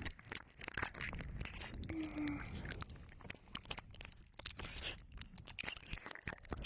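Close, wet mouth sounds and ear licking on a binaural dummy-head microphone: irregular tongue clicks, smacks and slurps in quick succession, with a brief low hum about two seconds in.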